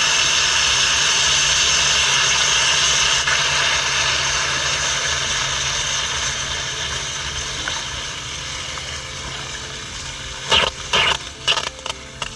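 Water spraying out of a corrosion hole in a steel water main under mains pressure: a loud, steady hiss that fades over the last few seconds. A few sharp knocks come near the end.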